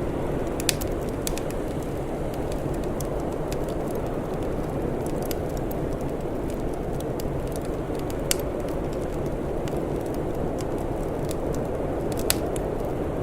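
Wood fire crackling, with scattered sharp pops over a steady low rumbling hiss; the loudest pops come about a second in, about eight seconds in and near the end.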